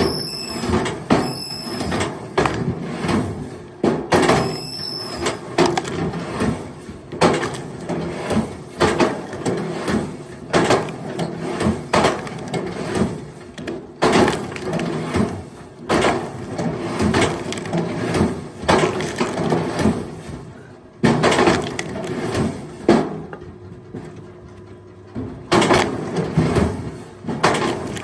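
Pieces of firewood knocking and clattering together as they are tossed by hand onto a pile or into a load. The knocks are irregular, in quick clusters with short pauses between.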